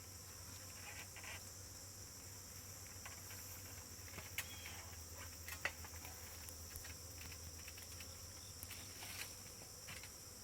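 Steady high-pitched insect chirring, with a faint low hum underneath and a few small clicks.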